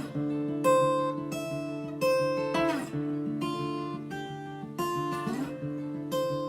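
Acoustic guitar strumming chords in an instrumental gap of a song, each chord ringing and fading before the next is struck.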